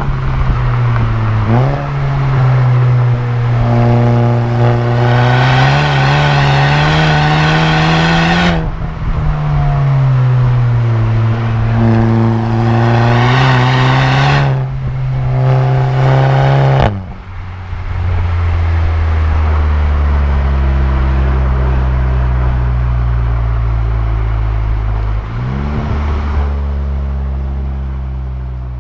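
VW Golf GTI Mk7's turbocharged four-cylinder with a Stage 1 tune and a muffler-deleted exhaust, pulling hard through the gears: two long rising pulls, each cut off by a sudden drop in pitch at the shift. Then it settles into a lower drone whose pitch falls slowly as the car slows, with another step change near the end.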